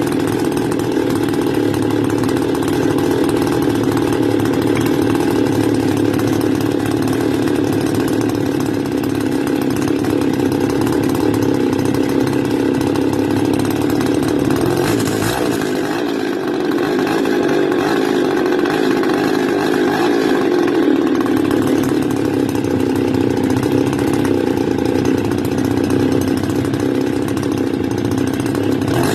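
Stihl FS 280 brush cutter's two-stroke engine running steadily, with a brief change in its note about halfway through. This is the engine that the owner says will not stay running when cold and will not start when hot, with harsh vibration at idle.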